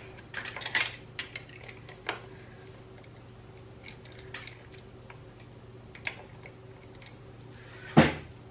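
Metal hand tools clicking and clinking against a bolt while tightening it, in a few scattered bursts, with one louder clank about eight seconds in.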